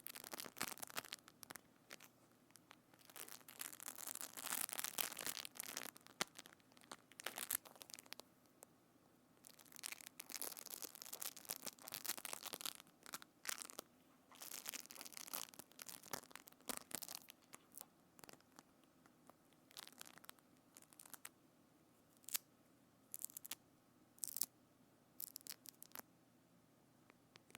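Close-up ASMR handling sounds on a binaural microphone: irregular bursts of scratchy, crackling noise mixed with sharp clicks. Later on these thin out to sparse single clicks.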